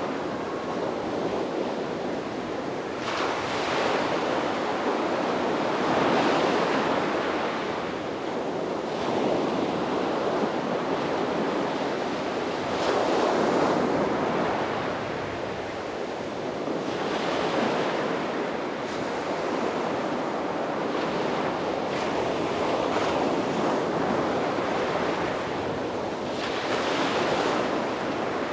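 Sea waves breaking and washing up on a beach: a steady rush of surf that swells every few seconds as each wave comes in.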